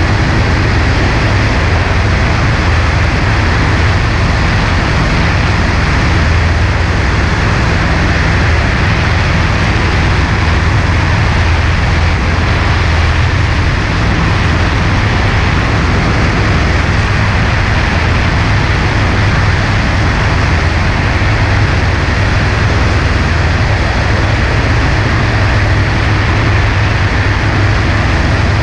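Cessna 140A's small piston engine and propeller running steadily at constant power, with a low steady drone under a rush of air.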